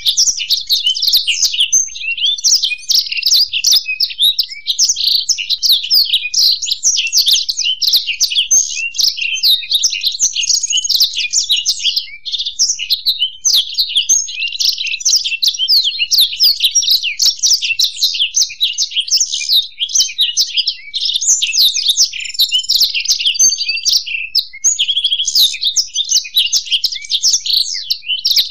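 Black-throated canary (blackthroat) and European goldfinch singing together: a dense, unbroken stream of rapid high twittering and trilled phrases.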